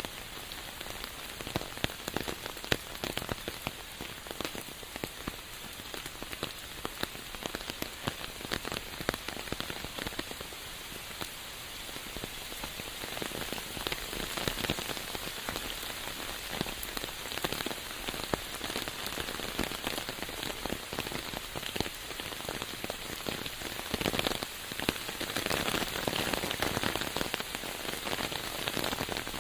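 Steady rain falling, with a dense patter of close drops. It grows a little heavier about halfway through and again near the end.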